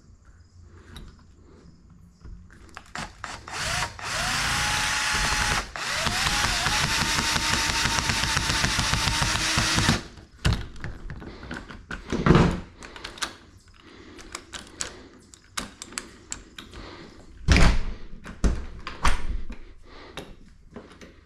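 Power drill run twice: a short burst, then a longer run of about four seconds, each time spinning up to a steady whine while working into material. Scattered knocks and clunks follow, with two loud thumps.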